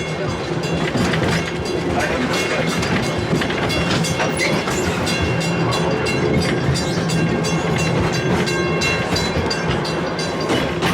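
The Wildlife Express Train running along its track, heard from aboard: a steady rumble and hum with continual small clicks and rattles of the wheels on the rails.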